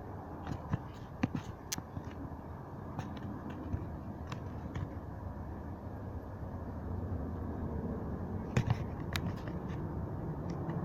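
A jet aircraft passing overhead, heard as a steady distant rumble that slowly grows louder, with a few faint clicks over it.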